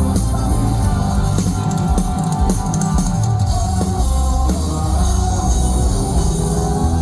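Loud live band music with drum kit and guitar.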